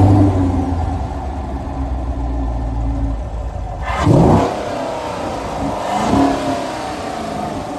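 Camaro SS's 6.2-litre LT1 V8, fitted with a JLT cold air intake, idling just after start-up. It is then blipped twice, a sharp rev about four seconds in and a smaller one about two seconds later, each time falling back to idle.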